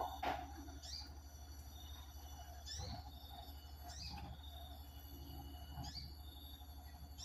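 A bird calling in a series of short, high, rising chirps, about five of them spaced a second or two apart, over a steady low hum.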